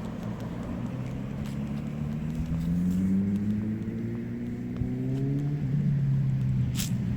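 A motor vehicle's engine accelerating, its pitch rising steadily, then dropping suddenly at a gear change and climbing again. A short crackle near the end.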